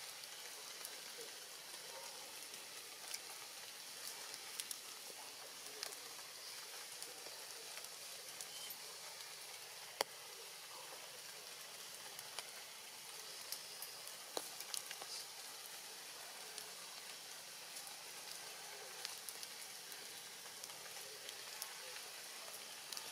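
Light rain falling steadily on forest leaves, a faint hiss with scattered drip ticks and one sharper tick about ten seconds in.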